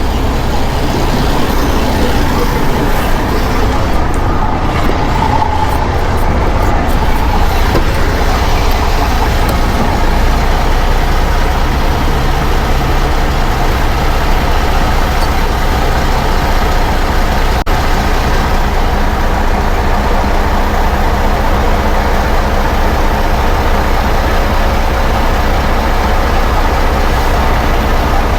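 Heavy truck diesel engine running steadily with a low rumble.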